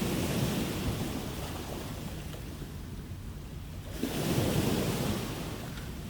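Ocean waves washing onto the shore, one surge near the start and a second, louder one about four seconds in, with a continuous hiss of surf between them.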